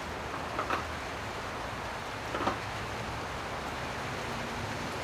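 Steady background hiss with two short clatters of small engine parts being handled, under a second in and about two and a half seconds in.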